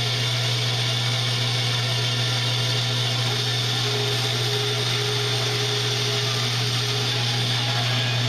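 A small electric motor running steadily with a low hum and a hiss over it.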